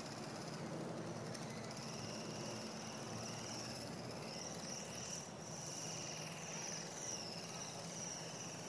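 Small RC helicopter flying, with a steady high-pitched motor and rotor whine whose tone sweeps up and down about halfway through as it moves.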